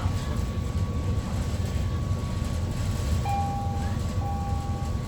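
Steady low rumble of a ship's engines and machinery. About three seconds in, an electronic beep starts repeating, about one beep a second.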